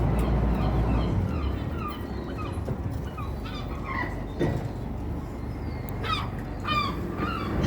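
Birds calling repeatedly in many short calls, with a low rumble during the first second or so.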